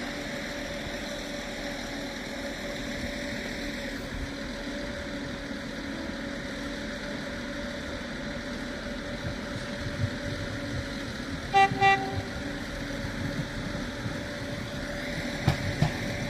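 A train horn gives two short, quick toots about two-thirds of the way through, over the steady hum of a train's engines running at the platform.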